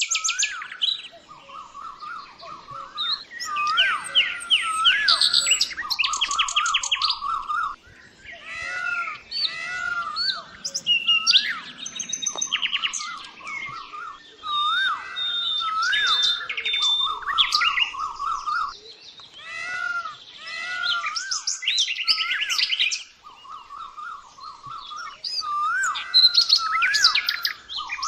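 Several birds chirping and calling over one another: repeated short looping whistles mixed with fast chattering trills, with brief lulls between bouts.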